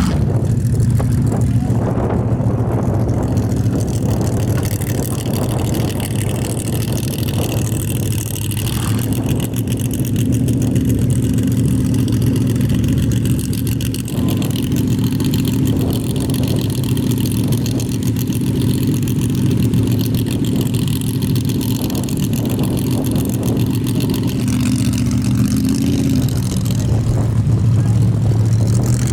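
A Formula Offroad race car's engine running hard at high, fairly steady revs. Its pitch climbs at the start, holds, then briefly rises and falls again near the end.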